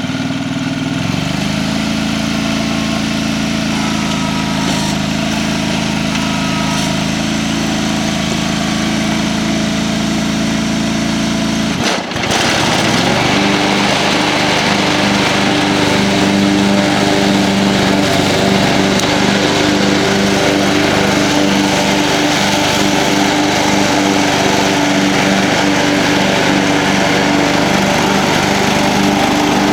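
John Deere 425 lawn tractor's V-twin engine running just after starting, settling into a steady idle. About twelve seconds in it dips briefly, then runs on at a higher pitch with more noise, as if throttled up.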